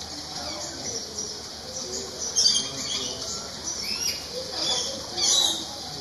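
Birds in a tropical bird house chirping and squawking: many short, high calls, with two louder runs of calls about two and a half and five seconds in.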